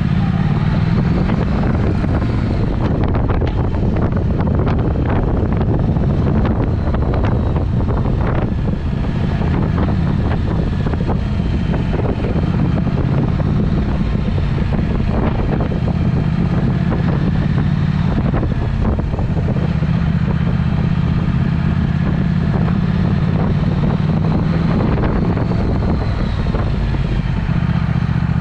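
Triumph Speed Twin's parallel-twin engine running through a Vance & Hines aftermarket exhaust while riding, its pitch rising and falling with the throttle. Wind buffets the microphone throughout.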